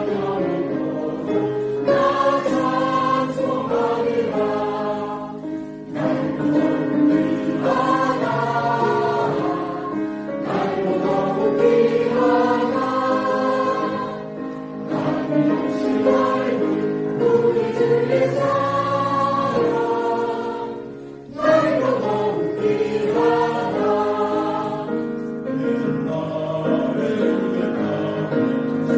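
Church choir singing, in sung phrases with brief pauses between them.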